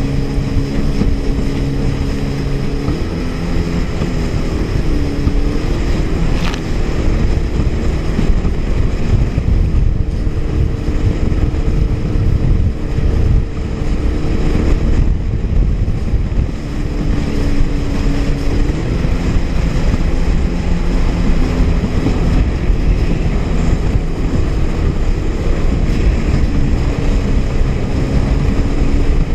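Honda jet ski's four-stroke engine running under way, its pitch stepping up and down several times with the throttle, over heavy wind noise on the microphone and rushing water.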